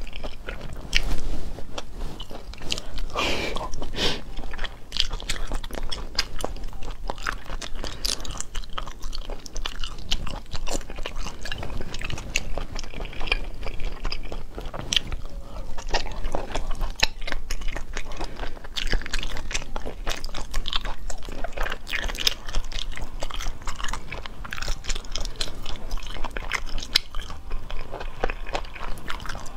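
A person biting into and chewing spicy braised food, with many sharp, irregular crunching clicks and wet mouth sounds throughout.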